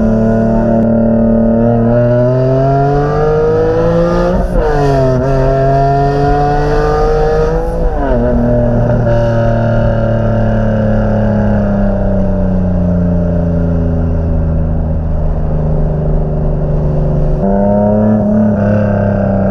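Turbocharged Infiniti G37's 3.7-litre V6 running under way. Revs climb for a couple of seconds, drop at an upshift about four and a half seconds in, climb again and drop at a second shift around eight seconds. The revs then sink slowly as the car coasts, and step back up near the end.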